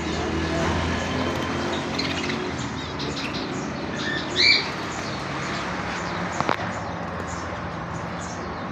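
Aviary birds calling: scattered chirps, with one loud, short squawk about halfway through. A steady low hum runs underneath.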